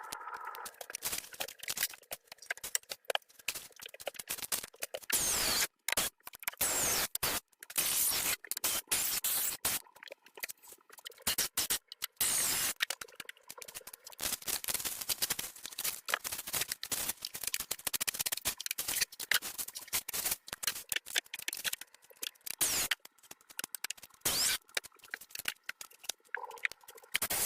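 Irregular scraping and scratching: a long run of short, sharp strokes with a few louder, longer rasps in between.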